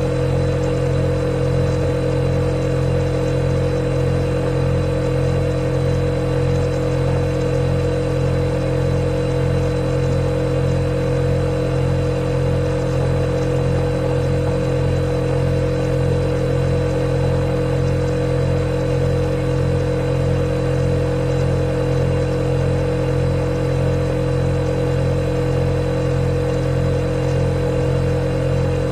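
A refrigerator running: a steady, even hum with a constant higher tone over it, unchanging throughout.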